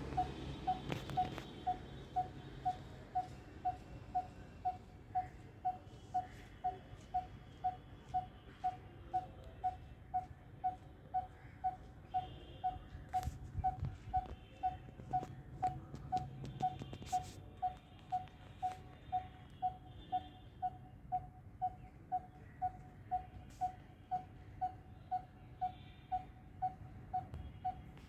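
A bird calling one short, hollow note over and over at a very even pace, just under two notes a second, with faint higher chirps from other birds here and there.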